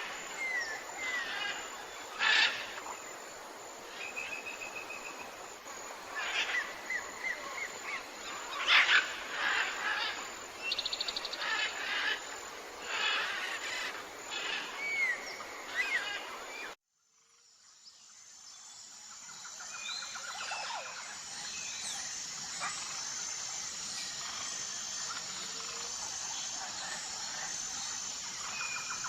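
Forest birds calling and chirping, a mix of short whistles, slurred notes and a quick trill. About 17 seconds in the sound cuts out abruptly, and a new recording fades in: a steady insect chorus with a high buzzing note repeating at even intervals, and an occasional bird call.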